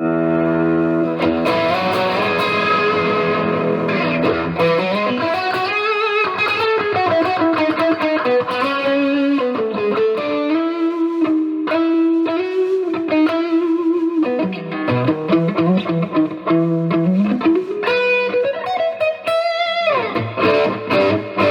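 Electric guitar played through a Silver Horse Klon-style overdrive pedal with its gain turned up, into a Boss Katana amp. A held, distorted chord rings for about four seconds, then single-note lead lines with bends follow, and a quick slide down near the end. The player finds this too much gain.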